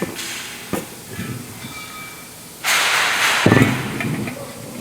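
Welding arc on sheet metal: fainter hissing with a few clicks, then a short, loud sizzling burst a little under a second long, about two and a half seconds in, like a tack weld.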